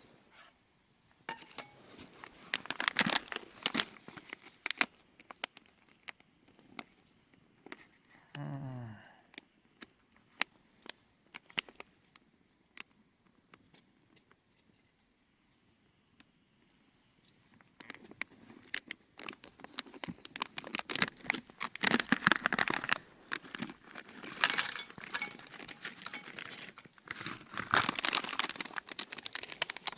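Crinkling and rustling in bursts with many small sharp clicks, as of material being handled. About eight seconds in comes one short, low, falling pitched groan.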